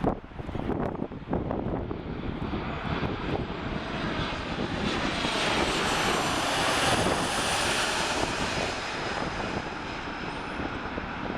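Airliner engines passing overhead: the noise swells to a peak about two-thirds of the way in and then eases, with a high whine that falls in pitch as the aircraft goes by. Wind buffets the microphone in the first second or two.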